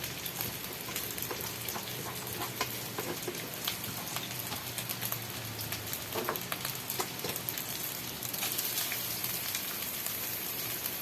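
Cooked rice frying with crisp garlic in a hot pan: a steady sizzle with scattered crackles and clicks.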